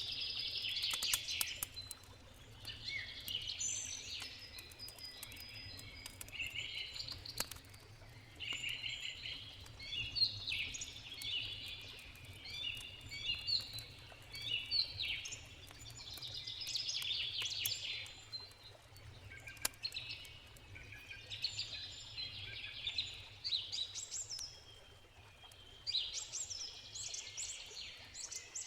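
Songbirds singing in short, repeated phrases, with the occasional sharp crackle and pop of a wood campfire and a low steady rush of river water underneath.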